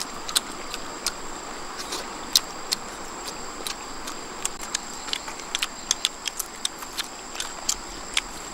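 Steady high-pitched drone of insects, with irregular sharp clicks and crackles several times a second on top.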